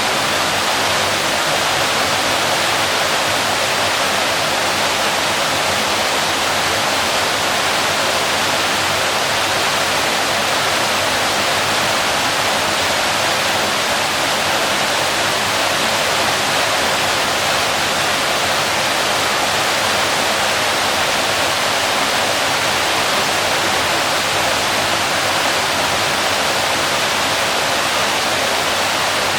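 Waterfall, water falling and splashing onto rocks in a steady, unbroken rush.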